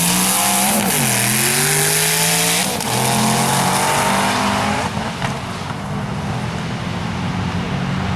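Drag race car accelerating hard down the strip, its engine note climbing and dropping sharply at two gear changes about one and nearly three seconds in, then fading.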